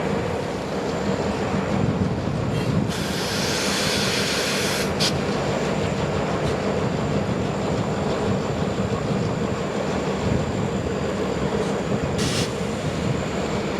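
Freight train rolling through, a steady rumble of railcar wheels on the rails with a thin high whine over it. Short bursts of hiss break in about three seconds in and again near the end.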